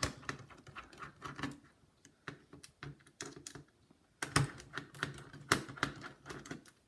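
Irregular small clicks and taps of a precision screwdriver and plastic laptop parts as the laptop's internal speakers are unscrewed and handled, thinning out in the middle and picking up again after about four seconds.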